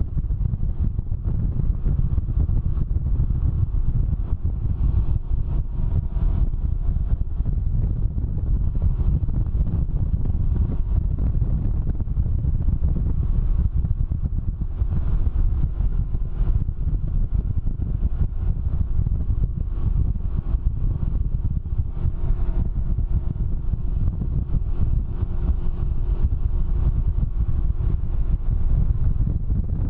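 Can-Am Ryker three-wheeler riding at speed: heavy wind buffeting on the microphone over the steady drone of the engine.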